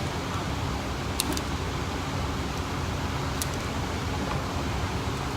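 Steady background noise, strongest low down with a faint even hum, broken by a few faint clicks: two close together about a second in and one more past the three-second mark.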